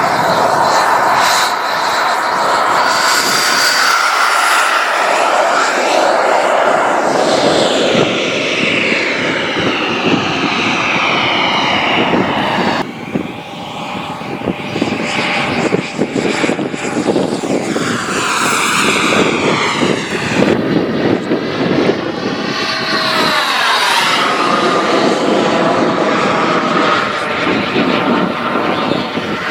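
Airworld Cougar RC jet flying circuits: a steady jet engine whine, its pitch sliding up and down each time the model passes by.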